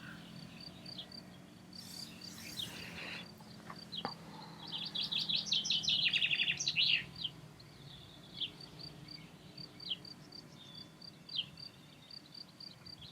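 Songbirds chirping: a high, evenly repeated chirp runs on throughout, with a burst of rapid song notes about five to seven seconds in and a few scattered short calls, over a faint low hum.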